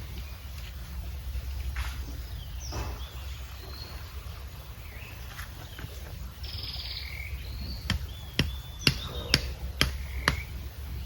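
Small birds chirping and whistling in short calls over a steady low rumble of background noise. Near the end comes a quick run of about six sharp knocks, the loudest sounds here.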